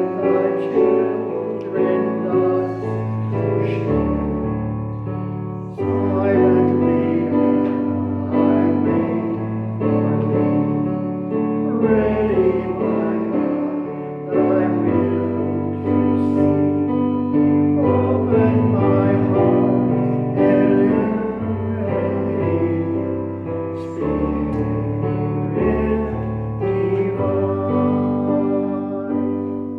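Piano playing slow, sustained chords, the bass note changing every two seconds or so.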